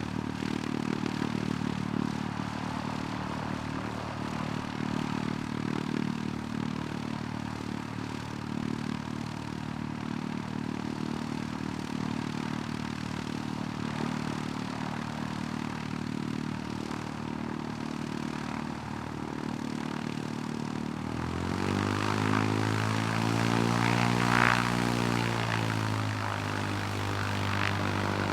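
Light propeller aircraft engine running steadily at low power. About 21 s in, a louder engine note comes in, its pitch rising and then falling again over a few seconds.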